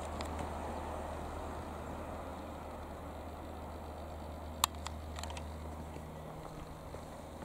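Piper PA-28-180 Cherokee Archer's single piston engine droning steadily in the distance, slowly fading as it moves away. A sharp click a little past halfway.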